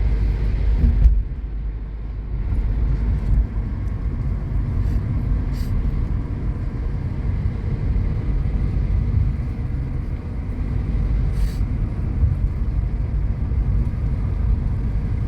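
Steady low rumble of a car driving along a road, engine and tyre noise heard from inside the cabin, with a brief louder knock about a second in.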